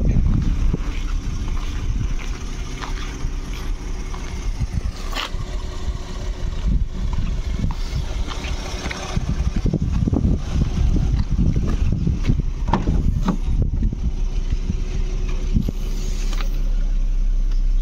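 2013 Ford Mustang's 3.7-litre V6 idling steadily, under a gusty low rumble and a few scattered knocks and clicks.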